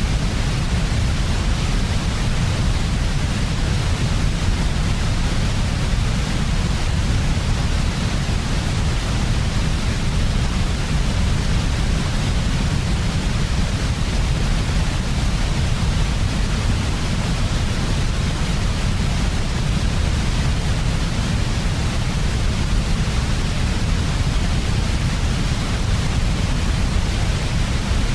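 Steady, unchanging white noise for sleep: a deep rumble below about 200 Hz under an even hiss, with no rise, fall or break.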